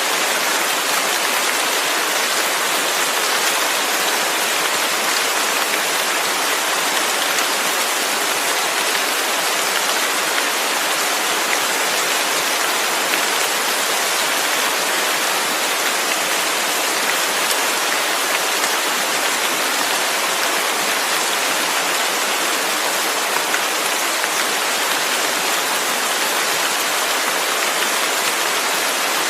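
Steady rain falling, an even hiss with a fine patter of drops and no let-up.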